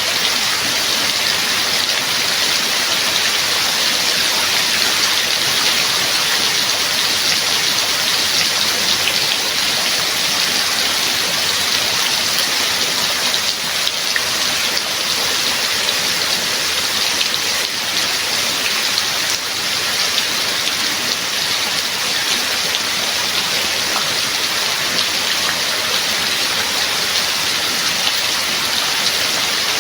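Steady rain falling, a dense even hiss of many drops that holds at the same level throughout.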